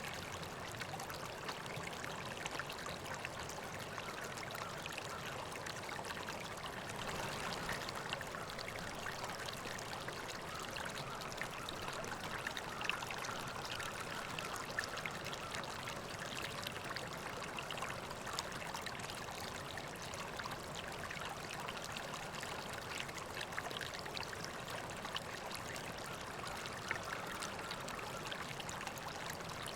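River water flowing steadily, a continuous babble of small trickles and splashes.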